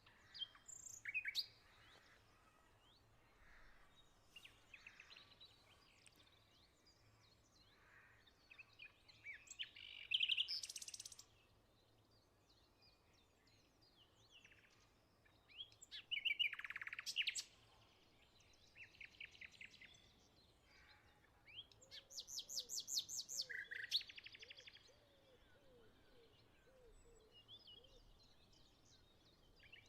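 Several songbirds singing and calling, with bursts of fast chirps and trills, the loudest around a third, half and three-quarters of the way through. Between the songs there is a faint steady background.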